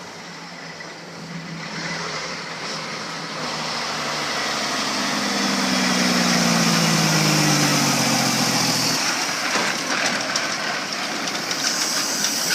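Tractor-trailer truck engine running and growing louder, its note sliding slowly down in pitch until it drops away about nine seconds in. A high hiss builds near the end.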